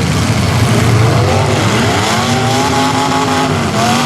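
Demolition derby car engines revving hard, their pitch rising and falling several times over a constant din of other running engines.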